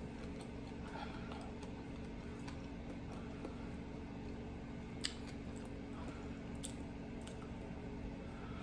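Quiet close-mic chewing of food with the mouth closed, over a faint steady hum, with a few sharp little clicks about five and six and a half seconds in.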